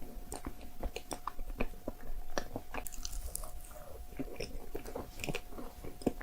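A person chewing and biting food close to the microphone: many short, irregular clicks of the mouth and food. A faint steady hum runs underneath.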